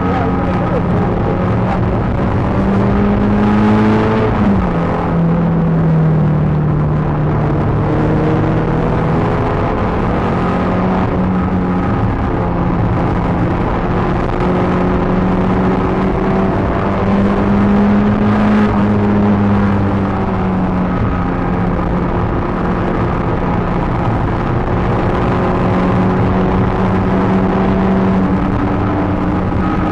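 Peugeot 306 GTi6's 2.0-litre four-cylinder engine running hard on a track, heard from inside the car. Its pitch climbs and then drops sharply about four seconds in, then holds fairly steady with slow rises and falls.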